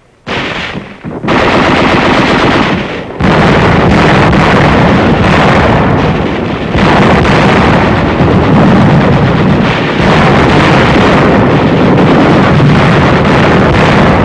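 Old newsreel battle soundtrack: dense, continuous gunfire with a heavy rumble. It starts just after a brief silence and grows louder about three seconds in.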